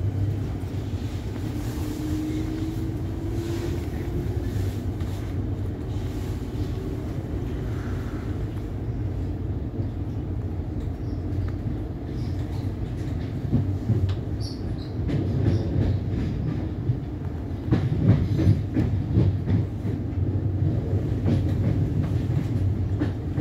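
Inside a Siemens Nexas electric train pulling away and gathering speed: a steady low rumble, with a thin motor whine rising in pitch in the first few seconds. From about halfway through, the wheels clatter and knock over rail joints and points, louder and irregular.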